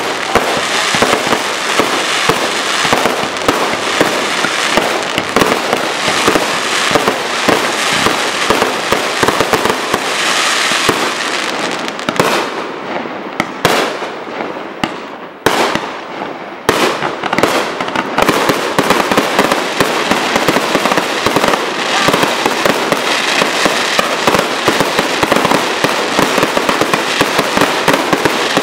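Fireworks display: a dense, continuous run of bangs and crackling from aerial shells bursting overhead. It thins to scattered, quieter pops for a few seconds around the middle, then builds back to a thick volley of bursts.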